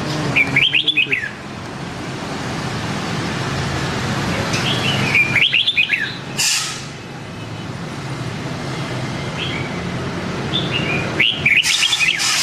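Red-whiskered bulbul singing three short, warbling phrases of rising and falling notes, spaced several seconds apart, over a steady low hum. A brief noisy burst comes shortly after the middle phrase.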